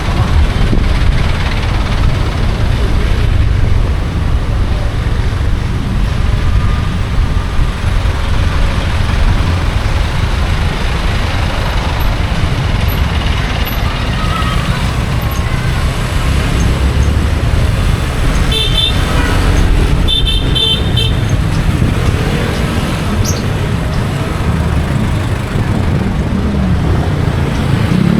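Steady low rumble of a motorcycle riding through city traffic, with road noise throughout. A vehicle horn beeps in two quick runs of short toots about two-thirds of the way through.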